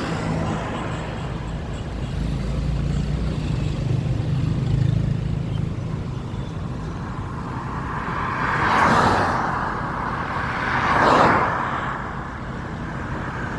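City road traffic: a steady engine hum, then two vehicles passing close by, one after the other, in the second half.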